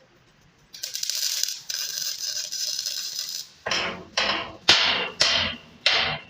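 Metalworking noise: a steady, hissing, grinding sound for about three seconds, then a run of sharp strikes, about two a second, each dying away quickly.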